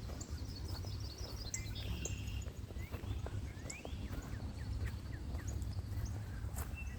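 Songbirds singing: a fast, stepping run of notes in the first second and a half, then scattered short sweeping chirps. A steady low rumble sits underneath.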